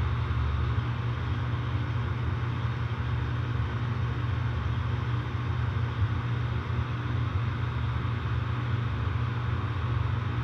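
Outdoor air conditioner condensing unit, a 1.5-ton Weather King, running steadily: a low compressor hum under the even whoosh of the condenser fan. The owner suspects the compressor is showing signs of failure.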